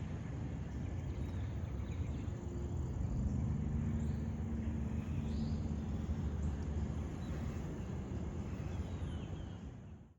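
A steady low rumble with a faint hum, and a few faint bird chirps above it. It fades out near the end.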